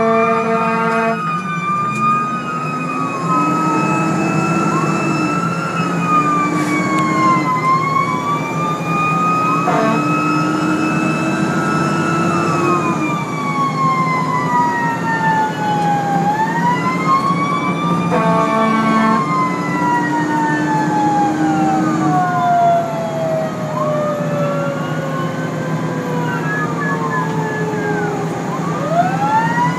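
Fire engine responding with sirens wailing, several rising and falling tones overlapping, over its steady engine. Short blasts of a steady horn chord sound at the start and again about 18 seconds in.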